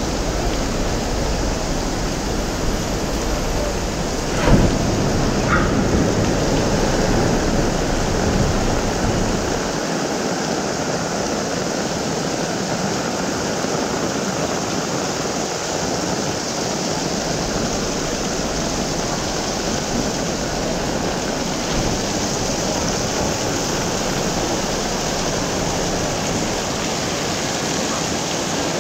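Heavy tropical downpour falling steadily in a dense, even hiss, with a single sharp knock about four and a half seconds in.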